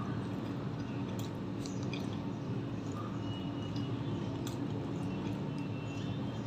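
Close-miked chewing of a mouthful of paratha and egg curry, with small wet mouth clicks and squishes, over a steady low hum.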